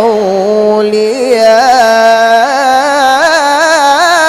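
A male qari reciting the Quran in a drawn-out, melodic style, holding a single sustained vocal line with rapid wavering ornaments and small steps in pitch.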